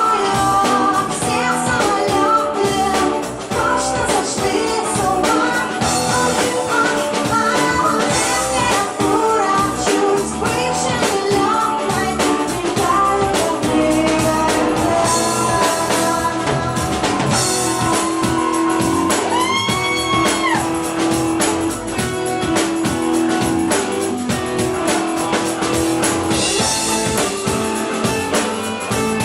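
Rock band playing live: a singer over guitars and a drum kit.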